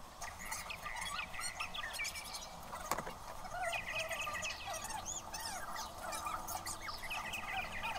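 Many small birds chirping and twittering at once, a dense chorus of short rising and falling calls that overlap throughout.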